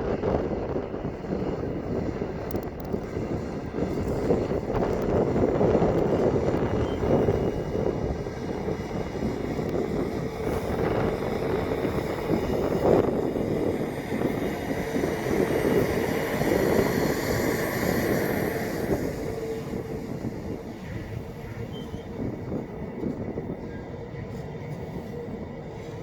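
Container wagons of a long freight train rolling past, wheels running steadily over the rails. A high wheel squeal rises briefly about two-thirds through, and the train noise eases off toward the end.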